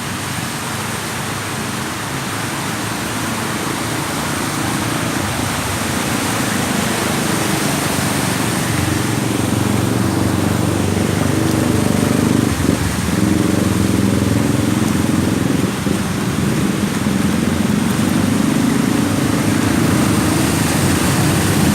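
Street traffic: motor vehicle engines running close by over a steady road noise, growing gradually louder, with an engine hum becoming prominent about a third of the way in.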